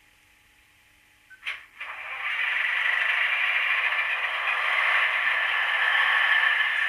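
A DCC sound decoder in a Hornby Class 156 DMU model plays its recorded diesel engine sound through the model's small speaker. Near silence at first, a click about a second and a half in, then a steady rushing engine sound from about two seconds on.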